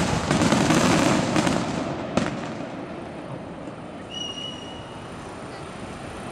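Aerial fireworks shells bursting: dense crackling for the first two seconds, a single sharp bang about two seconds in, then the sound dies away to a low rumble. A brief high steady tone sounds about four seconds in.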